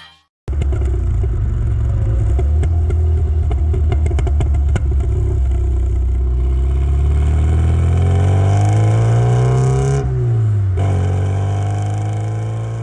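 Classic Rover Mini Cooper's engine and exhaust under way, heard from close to the rear number plate. The revs climb steadily through a gear, drop sharply at a gear change about ten seconds in, then run steady in the next gear.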